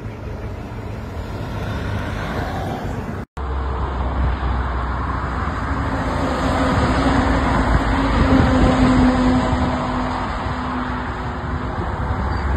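Steady rumble and road noise of a moving vehicle, with a brief dropout about three seconds in.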